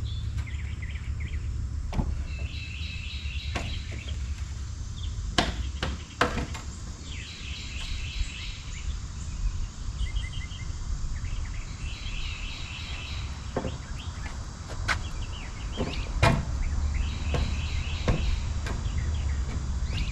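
Birds chirping in short repeated phrases, with scattered sharp knocks and clacks of hand work on a wooden door over a steady low rumble.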